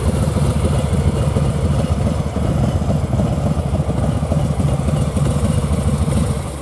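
Harley-Davidson V-twin idling steadily through Vance & Hines Eliminator 300 slip-on mufflers, with a deep, loud exhaust note. The sound cuts off near the end.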